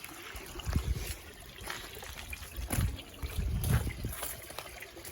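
Garden pond waterfall trickling and splashing steadily, with a few dull low bumps.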